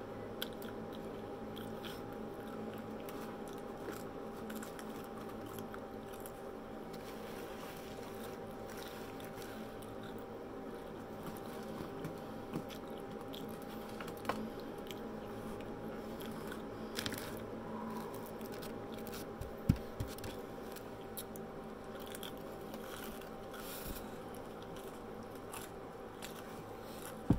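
Close-up eating sounds: chewing and crunching on fried onion rings, with scattered mouth clicks and smacks, over a steady faint hum.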